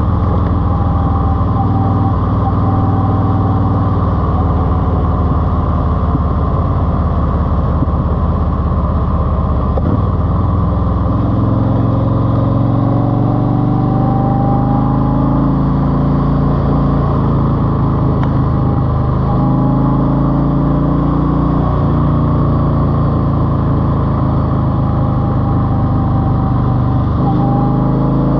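Car engine breathing through a 2.5-inch baffled aftermarket exhaust, running loud and steady, with its pitch rising and falling several times as it is revved and driven.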